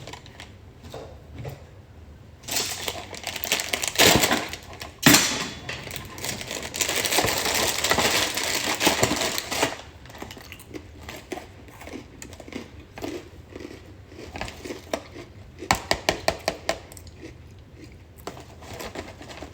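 Plastic snack packaging crinkling and rustling as the bag is opened and handled, in long stretches, then a quick run of sharp clicks and taps near the end.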